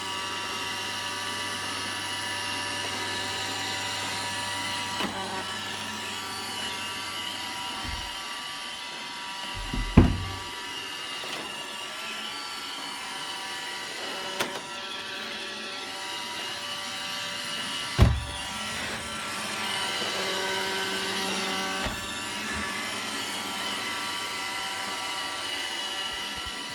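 iRobot Roomba 770 robot vacuum running with a brush problem: a steady whine from its motors and brushes, with two loud knocks about ten and eighteen seconds in and a few lighter clicks.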